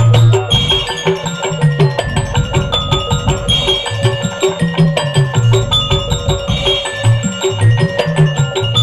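Hadrah music: frame drums and kendang playing a fast, steady rhythm under a melody line, without singing.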